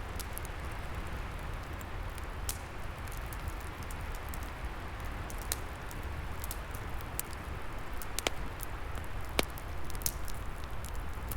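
Open log fire crackling, with sharp pops every second or two, over a steady low rush of wind.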